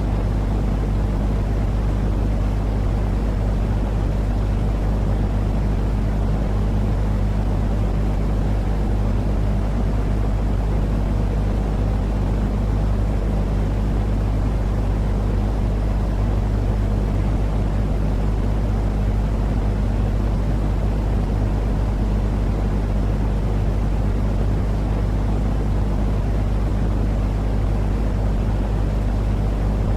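Steady sleep noise for a baby: an even, unchanging rumbling hiss, heaviest in the bass with a steady hum underneath.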